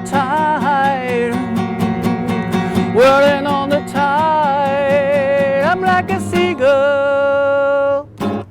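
Strummed acoustic guitar in a steady rhythm under a sung melody. The voice ends on a long held note, and the music stops near the end after a last brief strum.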